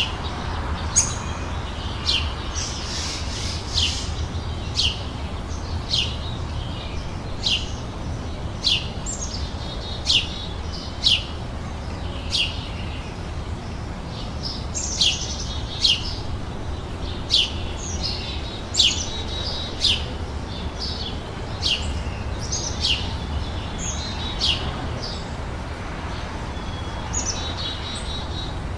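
Birds singing: a steady series of short, sharp chirps falling in pitch, about one a second, mixed with a few brief warbled phrases, over a steady low rumble.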